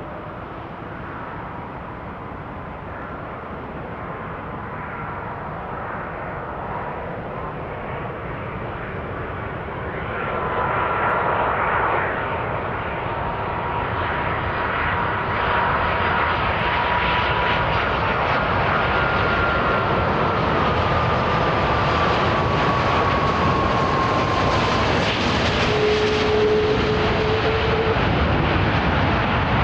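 Airbus A330-200's Rolls-Royce Trent 700 jet engines landing close by: a rushing roar with a steady whine, growing louder and stepping up about ten seconds in. Later one whine tone slowly falls in pitch.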